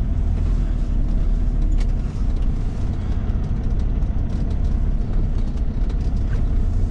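Caterpillar 3406E inline-six diesel of a Freightliner FLD120 running at low speed while the truck makes a tight turn, a steady low rumble heard inside the cab. Faint clicks and rattles come and go over it.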